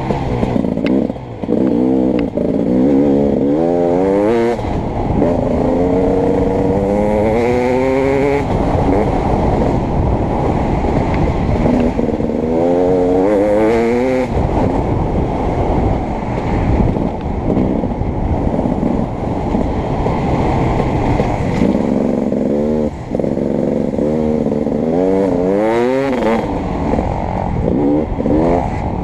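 Beta 300RX two-stroke motocross bike engine on the throttle, its pitch rising in repeated sweeps as the rider accelerates and dropping back between them.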